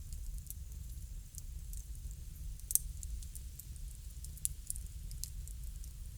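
Wood fire crackling: scattered sharp pops and snaps over a steady low rumble, with one louder pop about three seconds in.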